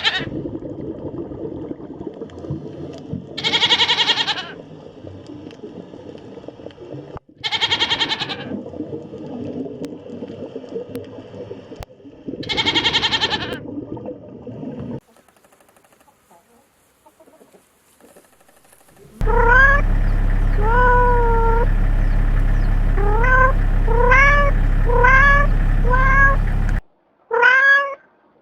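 Four drawn-out bleating calls over a noisy background. After a short pause, a cat meows repeatedly in quick short calls over a steady low hum, with a few more meows near the end.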